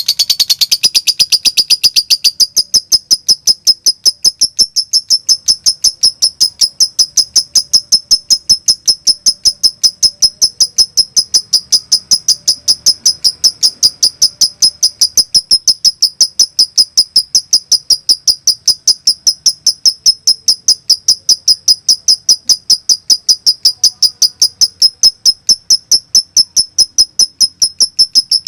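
Lovebird singing in a fast, unbroken string of high, sharp chirps, about five or six a second: the nonstop 'konslet' style of lovebird song.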